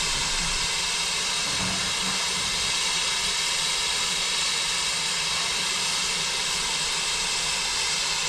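Steam blowing off from a GWR Manor-class steam locomotive: a loud, steady hiss that starts suddenly and holds without change.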